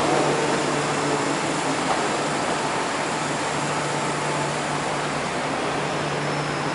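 Steady running noise of an MTR train: an even hiss and rumble with a constant low hum underneath.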